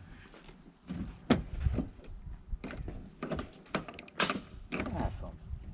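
Irregular sharp clicks and knocks of metal parts and tools being handled, about a dozen over the few seconds, two of them louder than the rest.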